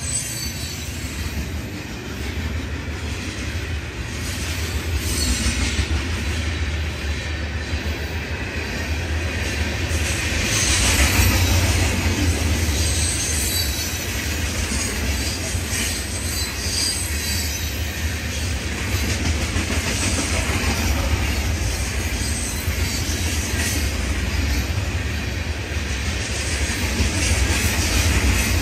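Florida East Coast Railway freight cars rolling past at close range: a steady low rumble and rattle of steel wheels on rail. Faint high wheel squeal wavers in from about ten seconds in, where the train is loudest.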